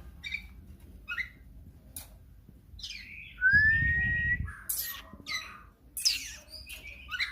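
Otter giving short high-pitched chirps and squeaks, with one longer squeal rising in pitch about three and a half seconds in, over a low rumbling noise.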